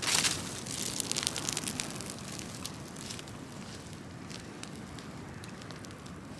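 Large open bonfire of brush and felled wood burning and crackling. A short loud rush of noise right at the start, then a flurry of sharp pops and crackles about a second in, settling to steadier scattered crackling.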